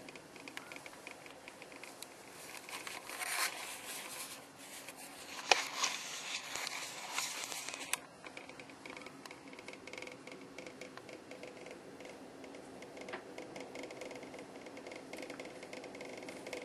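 Blizzard wind and blowing snow hissing, with faint ticks and scratches. A louder stretch with a sharp click cuts off suddenly about eight seconds in.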